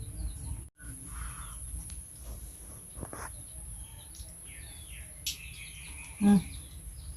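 Rural outdoor ambience: small birds chirping faintly over a steady high-pitched whine. About six seconds in there is one short, louder pitched call.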